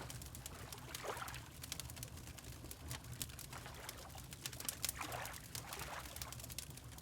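Wood fire crackling with many sharp pops over a low steady rumble, while water laps in soft washes about a second in and again about five seconds in.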